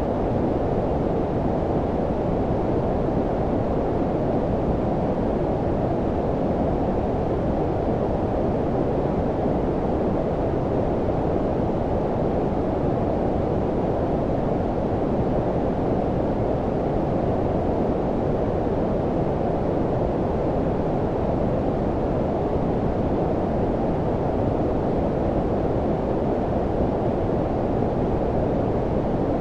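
Steady low-frequency noise of the brown-noise kind: a deep, even rushing sound with the high end rolled off, unchanging throughout.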